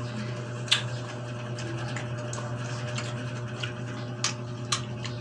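Two people chewing juicy pineapple chunks: scattered wet mouth clicks and smacks, one sharp click under a second in and two more near the end, over a steady low hum.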